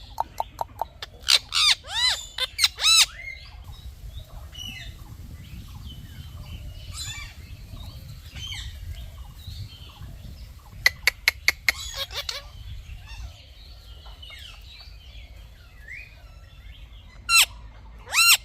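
Indian ringneck parakeet squawking in loud, harsh calls: a burst of calls in the first three seconds, a fast run of short screeches around the middle, and two more near the end, with fainter chirps in between.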